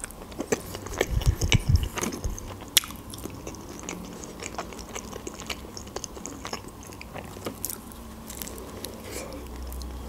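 Close mouth sounds of eating a shawarma in lavash: biting and chewing with wet clicks and light crunches. They come quickly and loudly in the first three seconds, then settle into slower, quieter chewing.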